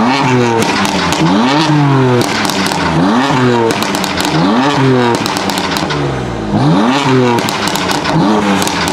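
BMW coupe's engine revved hard over and over while standing, about once a second, each rev rising sharply and dropping back, with exhaust pops and crackles between the revs.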